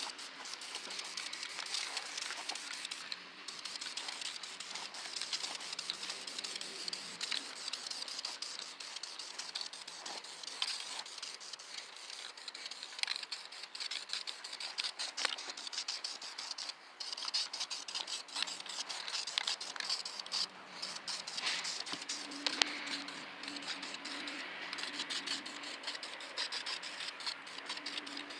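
Aerosol spray paint can hissing in short, repeated bursts with brief pauses, as camouflage paint is dusted on in light passes.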